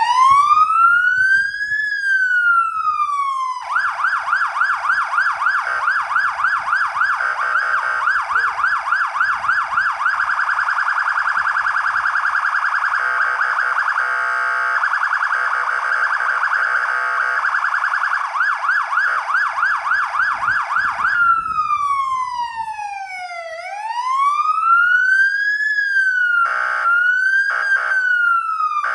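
Fire engine siren cycling through its tones. It opens with a slow rising and falling wail, switches suddenly to a rapid warble that speeds up, then returns to the slow wail for one deep sweep down and back up. Two brief bursts cut across it near the end.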